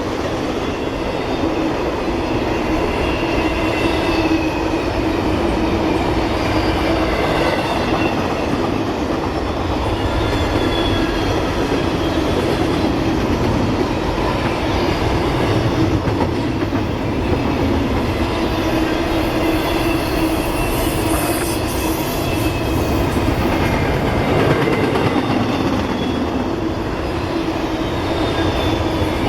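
Train cars rolling steadily past on the Lehigh Line: a continuous rumble of wheels on rail, with faint high wheel squeal wavering in and out.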